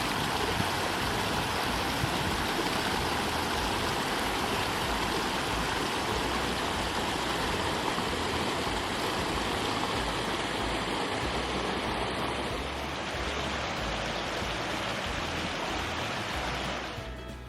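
Steady rushing of a mountain stream, an even wash of flowing water without distinct notes; it eases slightly about two-thirds of the way through and fades out just before the end.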